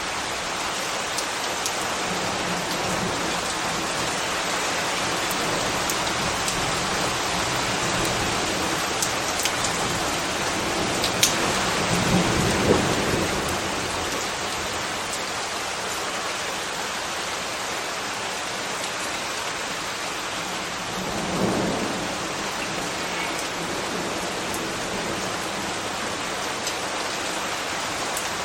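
Steady rain falling, with scattered sharp drip clicks. Twice, about twelve seconds in and again near the twenty-one-second mark, a low rumble swells up for a couple of seconds and fades.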